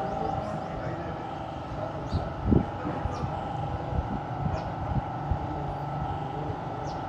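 Steady mechanical hum over a low rumble, with scattered light clicks and knocks and one louder thump about two and a half seconds in.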